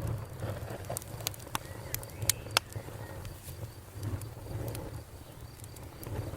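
Campfire crackling: irregular sharp pops and snaps over a steady low rumble of burning, with the loudest pops about two and a half seconds in.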